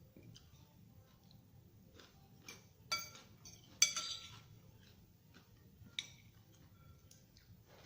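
Metal cutlery clinking against a plate while eating: a few short ringing clinks, the loudest about four seconds in, another just before it and a lighter one about six seconds in.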